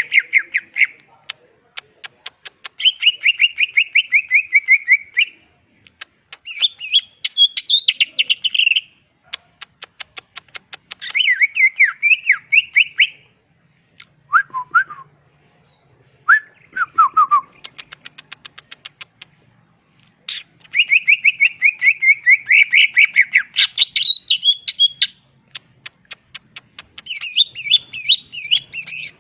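Green leafbird (cucak ijo) song: a varied run of phrases a few seconds each, mixing fast trills, rapid chattering series and warbled whistles, with brief pauses between. Near the middle come two shorter, lower falling notes.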